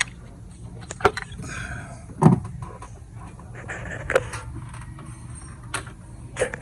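Hand tools clinking and knocking against metal while spark plugs are changed in the engine bay, a string of irregular sharp clicks with one heavier knock a couple of seconds in, over a steady low hum.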